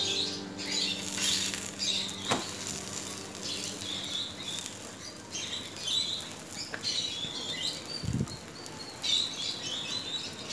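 Egg and bread frying in oil in a cast-iron pan: an uneven sizzle and crackle. A sharp click comes about two seconds in, and a short dull thump about eight seconds in.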